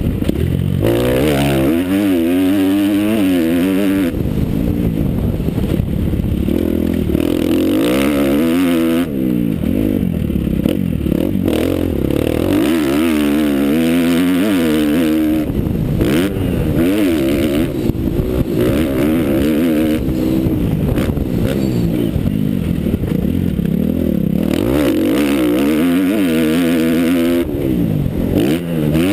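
Motocross motorcycle engine running hard, its pitch repeatedly climbing and dropping back as the throttle is opened and closed and the gears change.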